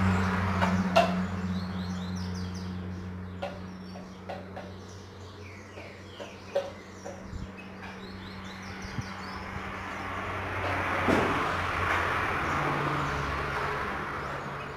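Small birds chirping and twittering over a steady low hum, with a few light knocks and clinks. A rushing noise swells and fades about eleven seconds in.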